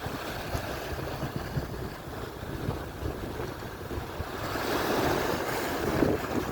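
Atlantic surf breaking on the shore, a steady wash of water noise that swells into a louder rushing wave a little past the middle. Wind buffets the microphone with uneven low rumbling.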